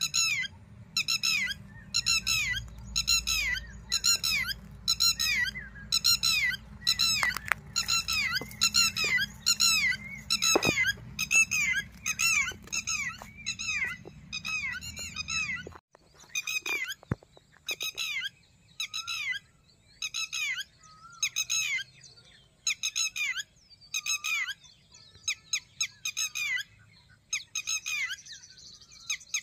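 A bird calling over and over in a fast, steady series of high, squeaky notes that fall in pitch. A low background hum under the calls stops abruptly about halfway through.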